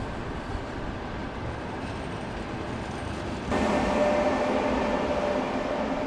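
Train in a station: a steady rumble, then about halfway through a sudden louder hum with several steady tones that holds to the end.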